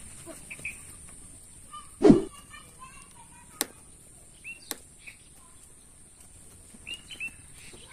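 Small birds chirping in short calls over a steady high-pitched background buzz. A loud thump about two seconds in, followed by two sharp clicks.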